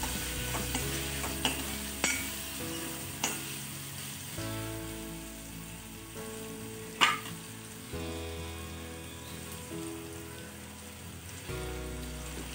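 Chopped tomatoes sizzling in hot oil in a kadhai, stirred with a metal spatula that clicks against the pan a few times, the loudest strike about seven seconds in. The tomatoes are frying down with the ginger-garlic and chilli masala.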